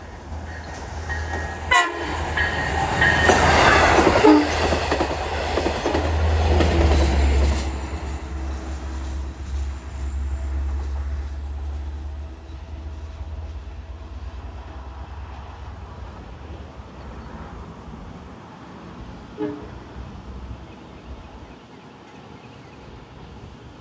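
Long Island Rail Road train with a short horn toot about two seconds in, then passing close with a loud rush of wheels and a low engine rumble. The rush is loudest a few seconds in, and the rumble fades away after about twelve seconds.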